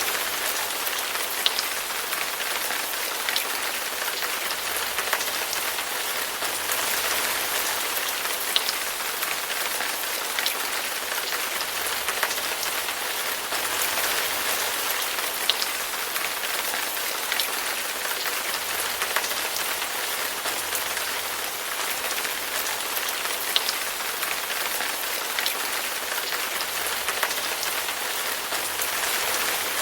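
Steady rain falling, with a dozen or so louder single drops ticking out of it at uneven intervals.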